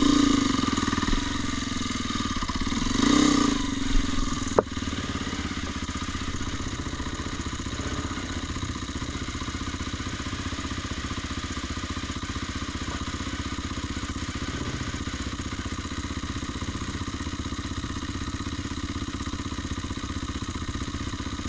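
An engine running steadily, swelling louder twice in the first few seconds, with a sharp click about four and a half seconds in.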